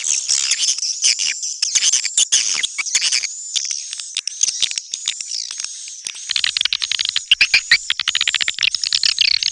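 Recorded swiftlet calls, the 'netral' sound used in swiftlet houses: a dense, fast, high-pitched chittering of chirps and clicks. It grows busier and louder about two-thirds of the way in.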